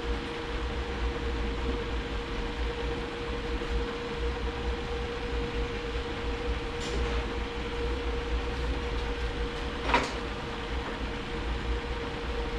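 Steady workshop background hum with a constant tone, and two light clicks of transmission parts being handled, the louder one near the end.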